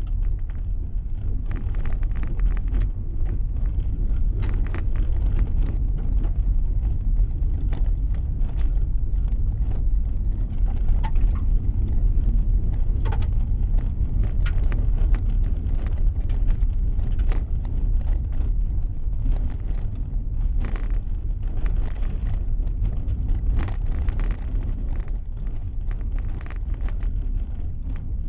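Car driving along a road, heard from inside the cabin: a steady low rumble of tyres and engine, with frequent small clicks and rattles scattered through it.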